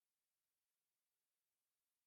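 Near silence: only a very faint, steady hiss.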